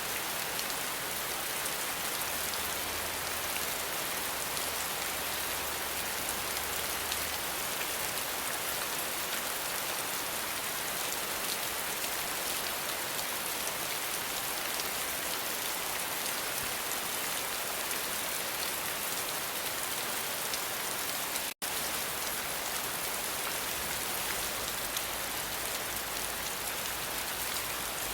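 Steady rain falling as an even, dense hiss, with a split-second gap about three quarters of the way through.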